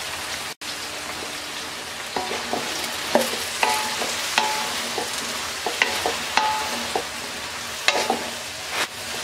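Dried jujubes sizzling steadily in hot mustard oil in a metal karai as a wooden spatula stirs them, with repeated knocks and scrapes of the spatula against the pan that ring briefly.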